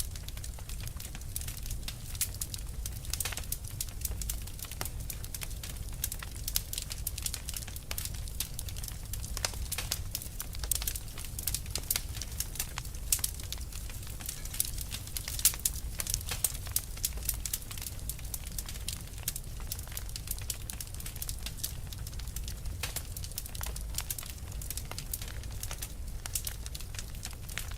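Fire crackling: dense, irregular sharp pops and snaps of burning wood over a steady low rumble of the flames, with a few louder pops now and then.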